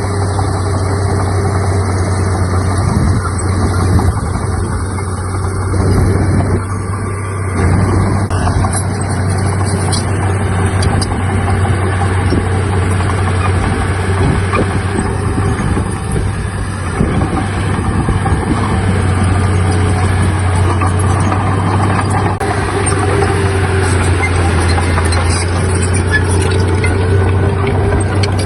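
Heavy diesel earthmoving machinery running steadily, with a constant clatter of small knocks over the low engine hum.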